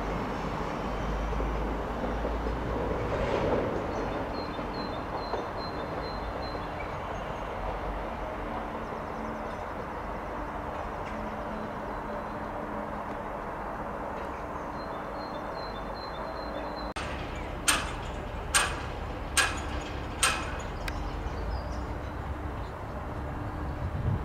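Class 323 electric multiple unit running away into the distance, a steady rumble of wheels and motors on the rails. Starting about 17 s in come four sharp clacks about a second apart, and near the end a low rumble builds as a diesel unit approaches.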